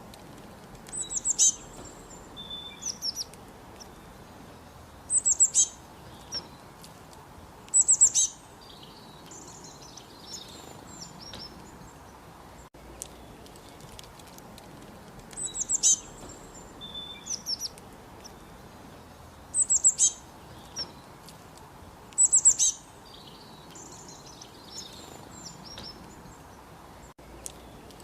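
Songbirds chirping in short, high-pitched phrases every few seconds over a steady faint hiss. The same sequence of calls repeats after about fourteen and a half seconds, as in a looped recording.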